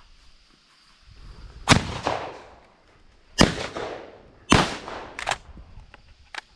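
Shotgun shots at flying pigeons: three loud blasts a second or two apart, each trailing off in an echo, then a shorter, sharper report about a second after the third.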